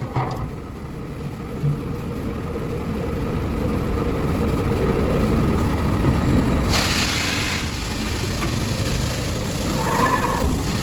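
Steady low mechanical rumble of a running motor, slowly growing louder, with a short burst of hiss about seven seconds in.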